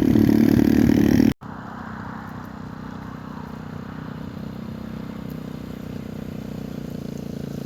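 110cc pit bike engine running. About a second and a half in the sound cuts off abruptly and comes back much quieter, growing steadily louder through the rest.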